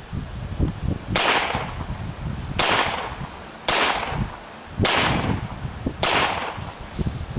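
Five .22 LR rifle shots fired about a second apart during a timed run-and-gun stage, each a sharp crack with a short echoing tail.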